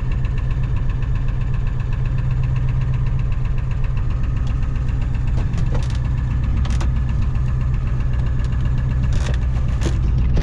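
Ford 7.3 IDI V8 diesel idling steadily in a 1993 F-350, with a few sharp clicks in the second half.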